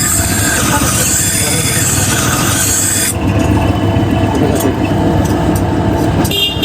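Steel scissor blade being sharpened: a harsh rasping hiss that stops about three seconds in, over a steady low rumble of road traffic.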